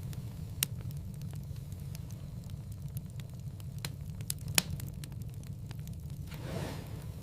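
Wood fire crackling in a fireplace: a steady low rumble of flames with scattered small ticks and two sharp pops, the louder one about four and a half seconds in. A brief swelling rush of flame comes near the end.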